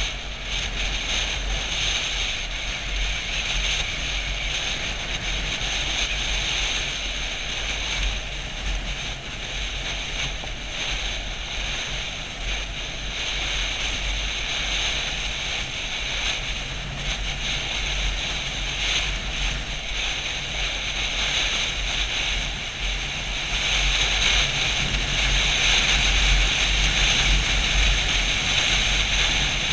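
Steady wind rushing over the microphone of a moving Yamaha FZ-07 motorcycle, with a low rumble underneath; it grows a little louder in the last few seconds.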